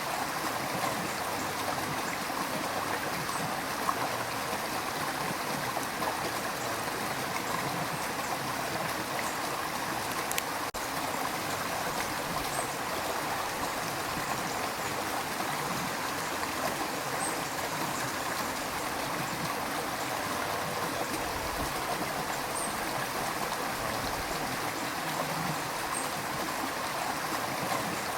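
River water rushing steadily, a continuous even flow with no breaks.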